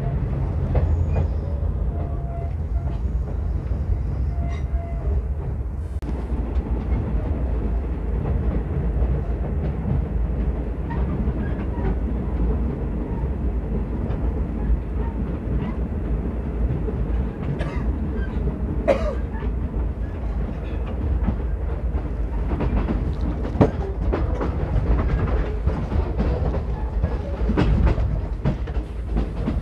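Commuter train running at speed, heard from inside a passenger carriage: a steady low rumble with scattered clicks and knocks from the wheels and track.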